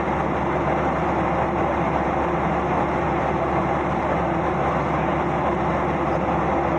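Airliner engine and airflow noise heard from inside the passenger cabin: a steady, even rush with a low hum under it.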